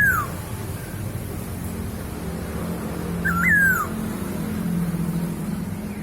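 Masked laughingthrush (poksay hongkong) giving loud whistled calls, twice: each note rises briefly, then slides down. A steady low hum runs underneath.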